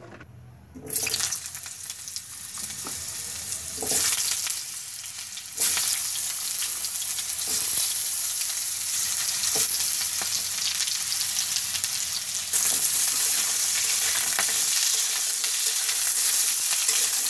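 Potato cubes frying in hot oil in an iron kadhai: a sizzling hiss that starts suddenly about a second in and grows louder in steps, with a spatula scraping and stirring the pieces.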